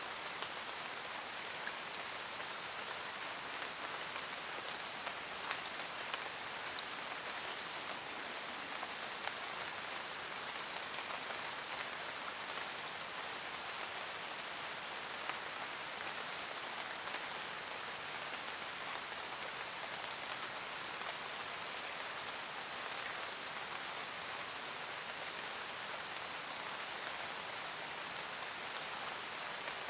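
Steady rain falling in a forest, a dense even patter of raindrops with scattered louder individual drops.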